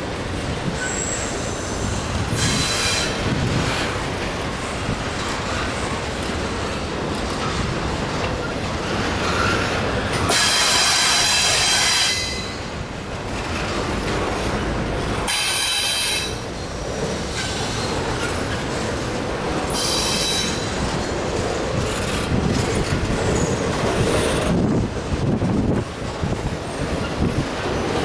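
Freight train cars rolling past with a steady rumble and wheel clatter. High-pitched wheel squeal rings out in four bursts, the longest about ten seconds in, lasting around a second and a half.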